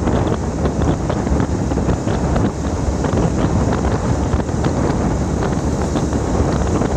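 Wind buffeting the microphone: a steady, loud rumbling noise, heaviest in the low end, with faint scattered ticks over it.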